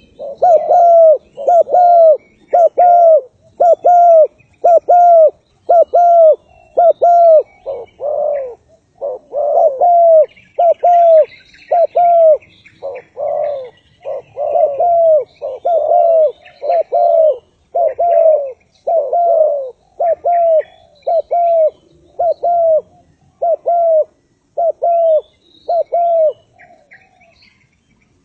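Spotted doves cooing over and over, a steady run of short coos about one and a half a second that stops just before the end. Faint chirps of small birds sound higher up.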